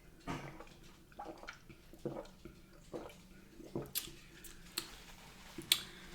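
Close-up mouth sounds of drinking a soft drink: wet gulps and swallows coming roughly once a second, with a few sharp clicks.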